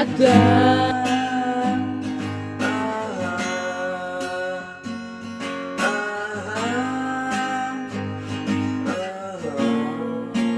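Acoustic guitar strummed in a steady rhythm, with a sung note held over it at the start.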